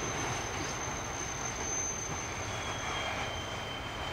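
Freight train of tank wagons rolling past, a steady rumble and rush of wheels on rails. A thin high wheel squeal runs through the first half, and a lower squeal sets in about halfway and sinks slightly in pitch.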